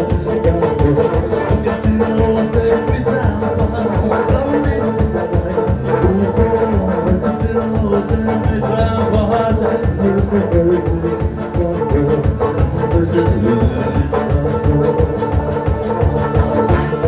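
A folk band playing a song live, with a fast, even beat and sustained melody lines.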